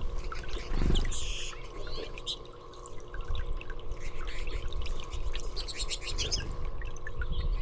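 Small birds chirping with short high calls and a quick trill around six seconds in, over trickling water; a brief high hiss comes about a second in.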